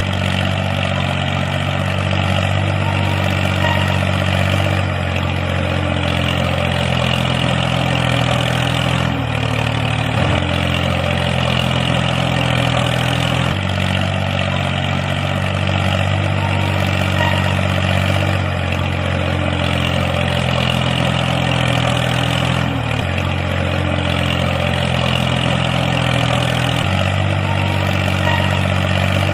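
The motor of a homemade mini tractor running steadily, its hum stepping up or down in pitch several times.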